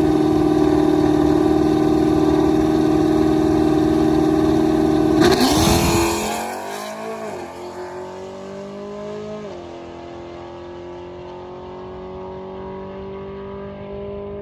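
Pontiac G8 drag car's engine held at steady high revs on the starting line, then launching about five seconds in and accelerating away down the strip, fading with distance. Its automatic transmission upshifts, heard as drops in pitch about seven, nine and a half, and fourteen seconds in.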